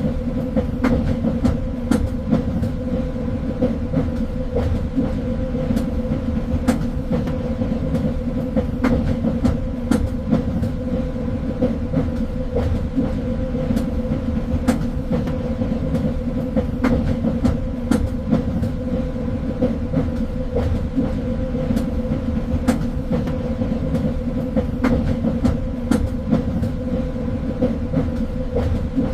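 Train running along the track: a steady rumble with a constant low hum and scattered sharp clicks throughout.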